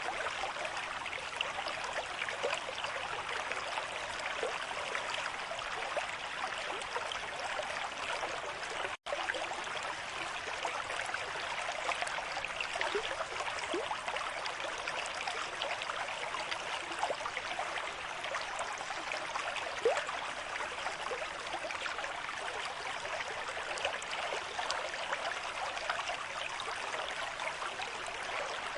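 A stream in moderate flow, with water rushing and burbling steadily and small gurgles throughout. The sound cuts out for an instant about nine seconds in.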